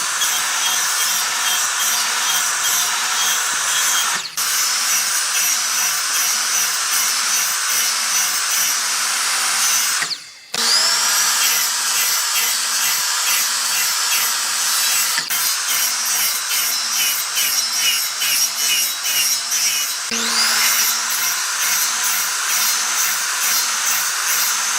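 Electric power tool running on wood with a steady high whine. It cuts out briefly about ten seconds in, then spins back up with a rising whine, and spins up again near twenty seconds.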